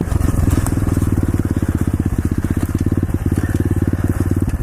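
Pit bike's single-cylinder engine running at low, steady revs with a fast, even putter as the bike cruises slowly along a muddy trail.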